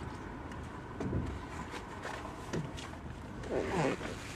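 Steady low rumble of a car's cabin noise, with a few faint clicks and a short faint voice-like sound near the end.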